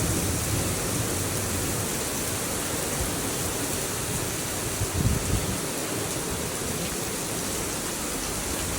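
Heavy rain pouring steadily in a strong thunderstorm, with strong wind; a short low burst of noise about five seconds in.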